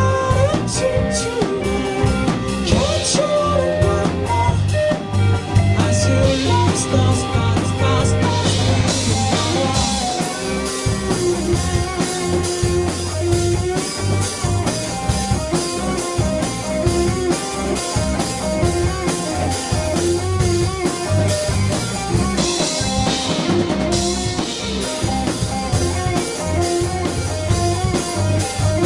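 Live rock band playing an instrumental passage: a guitar melody over drum kit with cymbals and a bass line.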